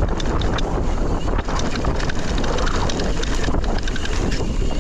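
Wind buffeting the microphone during a mountain bike descent on a dirt trail, over the low rumble of tyres rolling, with frequent sharp ticks and rattles from the bike over bumps.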